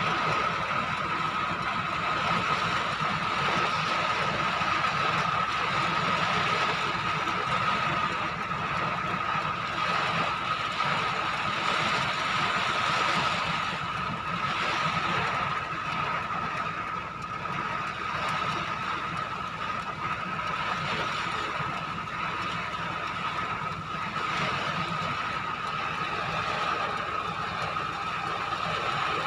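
Steady noise of heavy rain and strong wind during a storm, with a constant high-pitched tone running through it.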